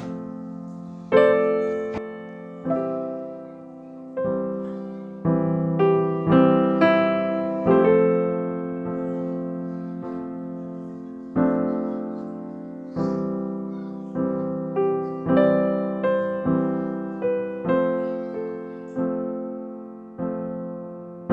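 Background piano music: slow, gentle notes and chords struck one after another, each ringing out and fading before the next.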